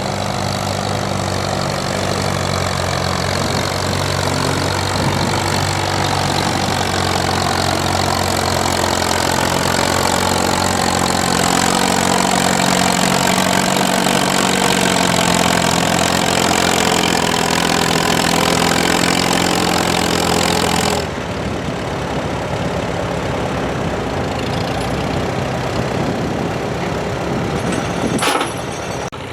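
Antique farm tractor engine running hard under load in a tractor pull, its pitch wavering as engine speed changes. The loud engine sound drops off abruptly about 21 seconds in, leaving a quieter engine running, with a short sharp noise near the end.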